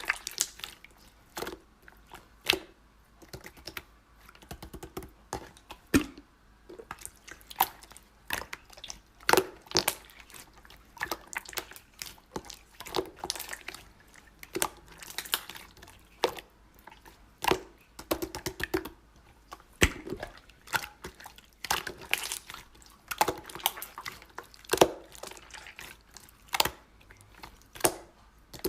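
Slime being worked by hand, making irregular sticky clicks and short wet squelches.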